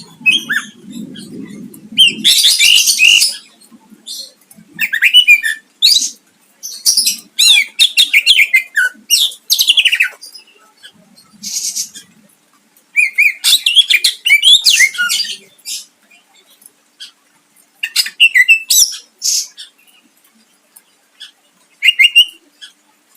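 Greater green leafbird (cucak ijo) singing in loud, rapid bursts of varied high chattering and whistled phrases, separated by short pauses.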